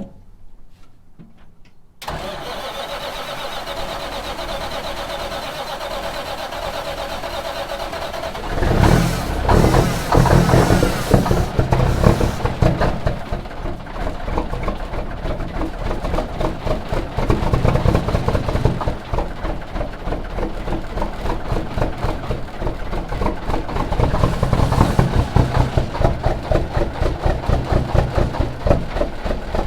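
1976 Kenworth W900A's Big Cam 400 Cummins diesel cranking on the starter after a shot of ether in a cold start. About eight seconds in it begins to fire, loud and uneven, and the cylinders keep catching in a ragged rhythm as it struggles to come to life.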